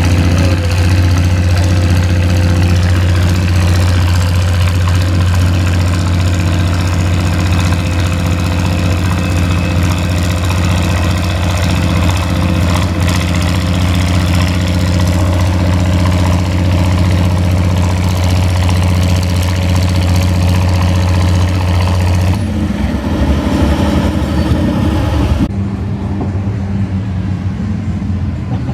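Antique farm tractor engine running at a steady speed, with a strong low hum. The sound changes abruptly about 22 seconds in, and again about three seconds later.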